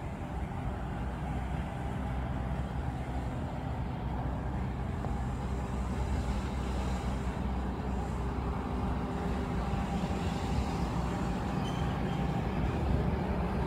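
Passenger train passing: a steady low rumble of the carriages rolling along the track.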